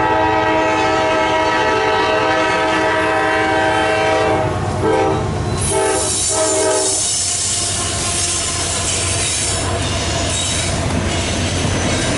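A CSX diesel locomotive's air horn sounds a long chord, then several shorter blasts. About halfway through, the locomotive passes close by, and its horn gives way to the steady rolling rumble and wheel-on-rail noise of an empty coal train going by.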